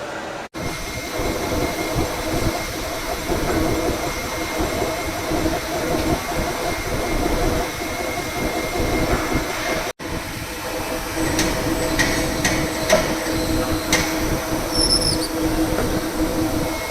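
Duplex milling machine cutting steel: a steady, rough machining noise carrying several held tones, broken by two abrupt cuts and, in its second half, a few sharp clicks.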